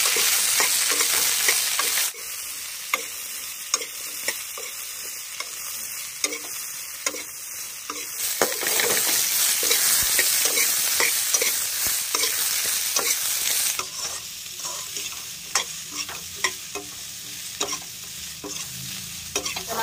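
Cut sem (flat beans) sizzling in hot oil in a metal kadhai while a metal spatula scrapes and clicks against the pan as they are stirred. The sizzle is loudest at the start, drops suddenly about two seconds in, swells again in the middle and fades after about fourteen seconds, while the spatula clicks go on.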